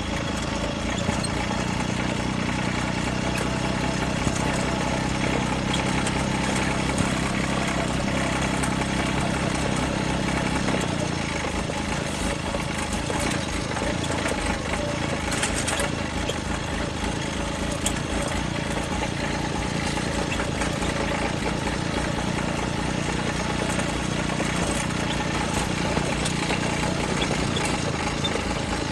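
John Deere tractor's diesel engine running steadily; about eleven seconds in, its engine note changes and it carries on at a different speed.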